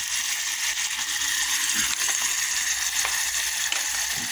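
Onions and a red paste frying in oil in an aluminium pot: a steady sizzle, with a few faint clicks.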